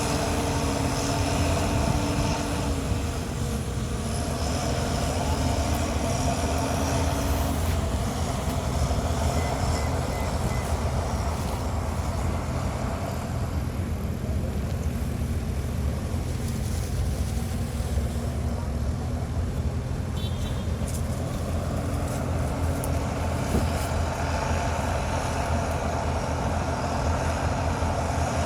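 Heavy diesel earthmoving machinery, bulldozer and dump truck engines, running steadily under load, the engine note shifting up and down a few times.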